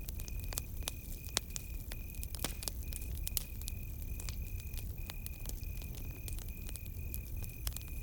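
Campfire crackling, with irregular sharp pops and snaps over a low steady rumble of the burning fire. A cricket chirps in an even rhythm throughout.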